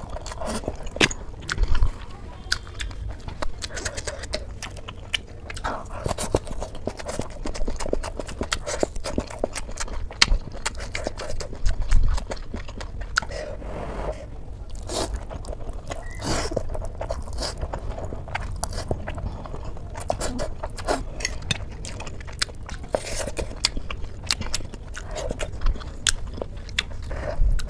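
Close-up eating sounds of a person chewing a mouthful of spicy instant noodles: wet chewing and lip smacks, broken by many short sharp crunchy clicks.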